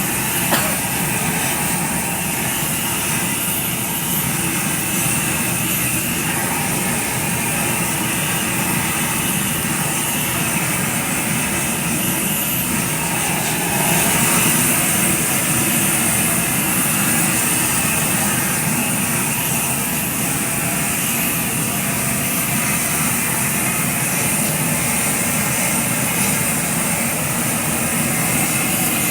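An engine running steadily and continuously, with a short sharp knock about half a second in.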